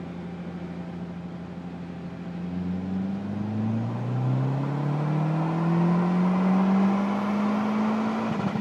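Mazdaspeed3's turbocharged 2.3-litre four-cylinder on a chassis dyno. It runs steadily at first, then about two and a half seconds in it begins a full-throttle pull, the revs climbing slowly and evenly and the engine getting louder until near the end.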